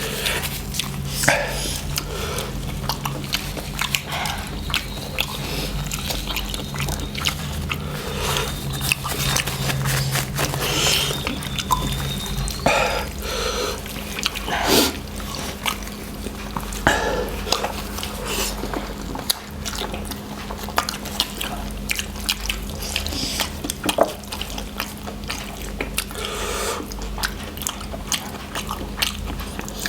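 Close-miked eating of spicy noodles: irregular wet chewing, mouth smacks and slurps, with a steady low hum under it.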